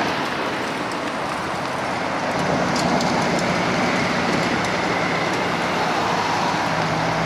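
Car engines running over a steady rushing outdoor noise, with an engine note growing louder near the end.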